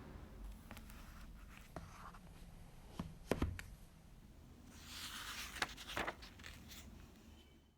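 Quiet indoor handling sounds: a few light clicks and knocks, with a brief rustle and scrape a little after the middle.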